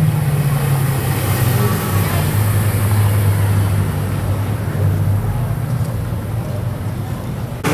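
Mercedes-Benz SLS AMG's V8 idling steadily at low revs, its pitch settling a little lower in the first second.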